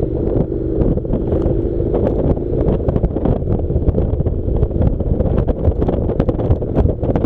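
Wind buffeting the microphone over the running engine of a Honda NC700 motorcycle, a parallel twin, as it rides a dirt track, with many scattered sharp clicks.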